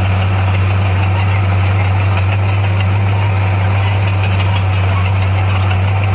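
Heavy construction machine's diesel engine running steadily with a constant low hum.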